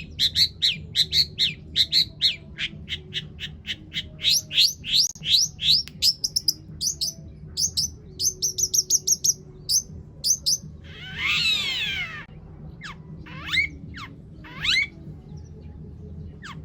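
Long-tailed shrike (cendet) singing: a fast run of sharp, repeated sweeping notes for about ten seconds. It is followed by a short dense harsh burst and a few separate sweeping calls near the end.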